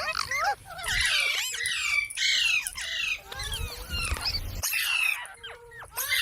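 Parrot squawking and chattering: a rapid string of short, harsh calls that swoop up and down in pitch and often overlap, with a low rumble about halfway through.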